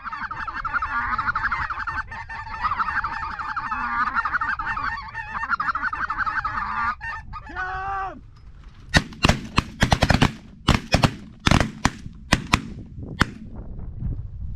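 A large flock of geese honking over one another, then one loud drawn-out honk. About two seconds later comes a rapid volley of a dozen or so shotgun shots over about four seconds, as several hunters fire at the birds.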